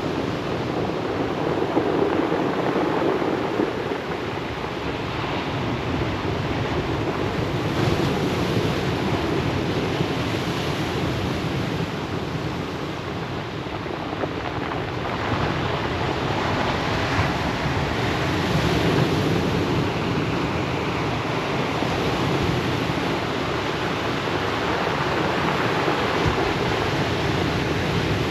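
Surf washing onto a pebble beach: a continuous rush of breaking waves that swells and eases every few seconds.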